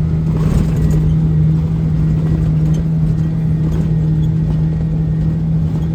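Kawasaki six-seat side-by-side's engine running at a steady drone while driving, with a constant low hum and a few faint rattles.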